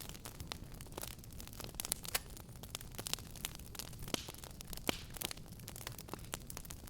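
Fireplace fire crackling: irregular sharp pops and snaps, a few standing out louder, over a steady low rumble of burning.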